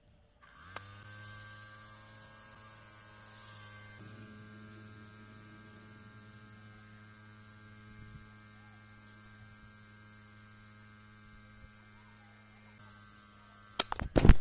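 A steady, low electric hum with evenly spaced overtones, starting with a click less than a second in and holding unchanged until near the end, where a few sharp clicks and knocks follow.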